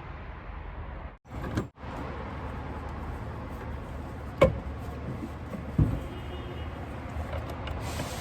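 Steady workshop background noise with two sharp knocks about a second and a half apart, the first the louder.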